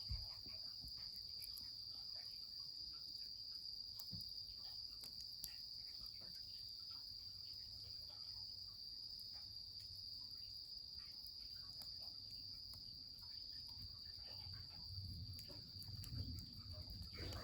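Insects chirring steadily in one continuous high trill, with faint scattered crackles from a wood fire.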